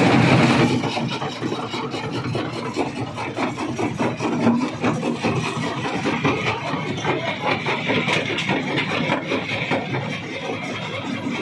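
Rock crusher breaking stone: a continuous grinding rasp of rock on rock and steel, dense with rapid small knocks, over the machine's running drive.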